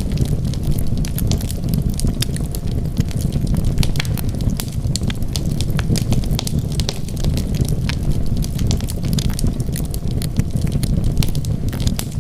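Wood fire crackling: many small, sharp, irregular snaps over a steady low rumble of the flames.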